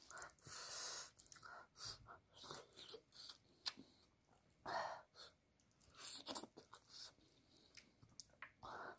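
Chewing and crunching on chicken wing in short, irregular bursts, with wet mouth clicks.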